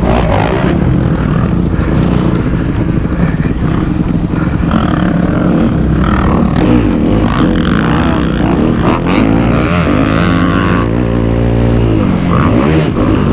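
Kawasaki KX250F's four-stroke single-cylinder engine being ridden hard on a motocross track, its pitch rising and falling repeatedly as the throttle is opened and rolled off through jumps and corners.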